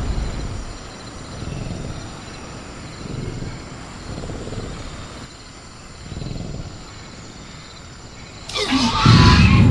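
Velociraptor sound effect: low rumbling growls swelling every second or two, then a loud roaring screech near the end. Crickets chirp steadily underneath.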